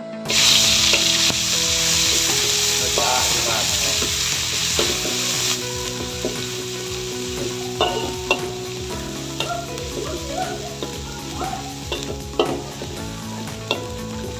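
Chopped lemongrass and ginger hitting hot oil in an aluminium wok, with a sudden loud sizzle. After about five seconds the sizzle settles lower while a metal ladle stirs the spices, scraping and clinking against the wok now and then.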